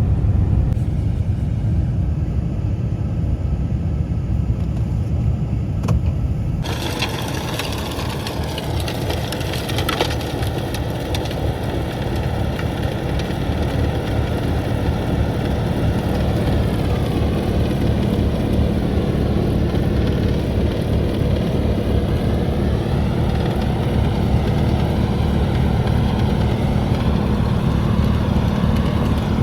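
Engine of a snow-clearing machine running steadily under load. About seven seconds in the sound abruptly turns brighter and noisier, with pitch that wavers up and down as the machine works.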